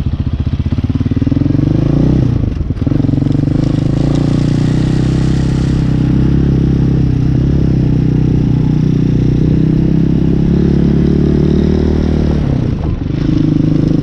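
Hawk 250 dirt bike's single-cylinder four-stroke engine running as the bike is ridden, with the engine note briefly dipping about two and a half seconds in and again near the end.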